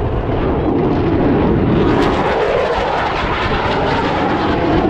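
Military jet aircraft making a low pass: a loud, continuous jet roar that swells and turns brighter about two seconds in.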